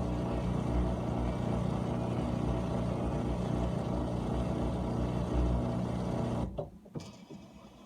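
GE dishwasher's pump motor running with a steady low hum, then shutting off abruptly about six and a half seconds in, as the cycle moves to its next stage.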